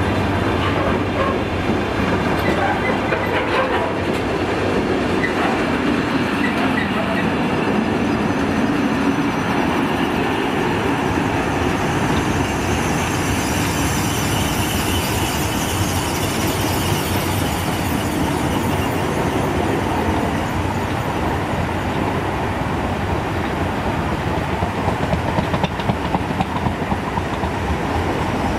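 Container freight train's wagons rolling steadily past, wheels rumbling and clicking over the rail joints. A faint high wheel squeal comes in around the middle, and the clicks grow sharper near the end.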